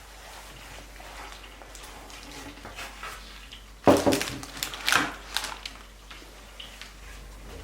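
Dishes and utensils being handled: low rustling and scraping, then a sudden loud clatter about four seconds in and a second burst of knocks about a second later.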